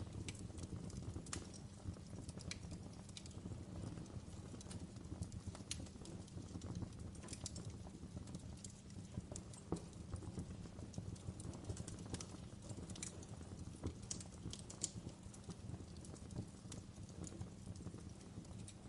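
Wood fire in a fireplace crackling and popping: irregular sharp snaps of burning logs over a steady low rumble.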